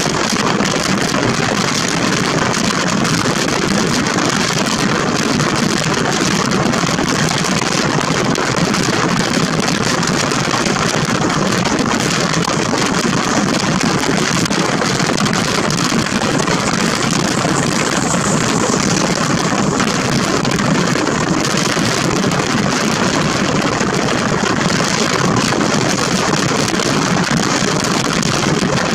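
Steady rush of a passenger train running at speed, heard from an open door or window of the coach: wheels on the rails and the coach's running noise mixed with wind rushing past.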